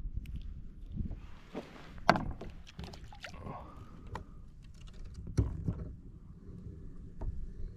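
Scattered knocks and clicks of handling on a fishing kayak, the loudest about two seconds in and again past five seconds, over a low, steady rumble.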